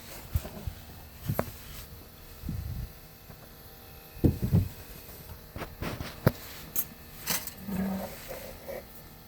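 Faint steady buzz from a parked Subaru Outback, which the owner takes for normal emissions-system noise after the car has sat for several hours. Louder scattered knocks and clicks sound over it, the sharpest about four and six seconds in.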